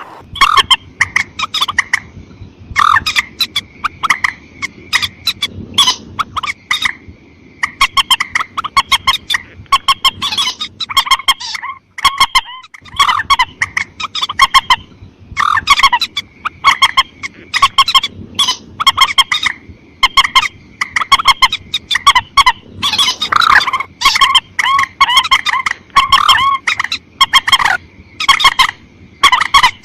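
Recorded lure calls of the mandar sawah, a rail: rapid runs of short, sharp, repeated notes in quick bursts, with a faint low hiss beneath.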